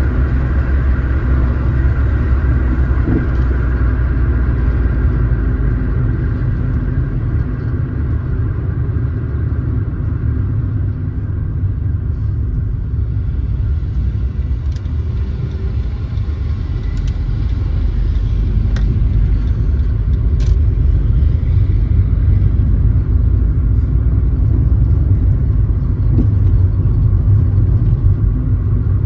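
Car driving along a road: a steady low rumble of engine and tyre noise that eases a little partway through and picks up again after about twenty seconds, with a few faint ticks in the middle.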